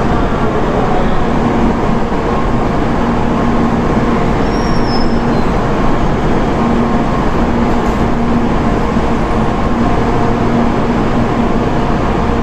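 Shinkansen bullet train pulling out of a station: steady, loud running noise with a low motor hum that comes and goes.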